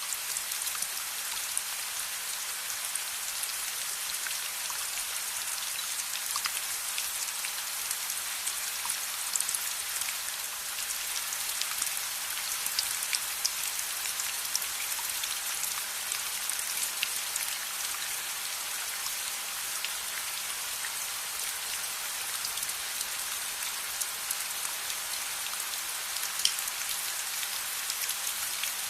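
Steady rain, a dense even hiss, with scattered sharp ticks and pops throughout.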